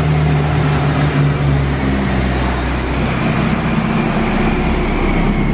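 Turbocharged Nissan 240SX engine running loud and steady on a chassis dyno, driving the rollers during one of the final tuning pulls. Its tone shifts about halfway through.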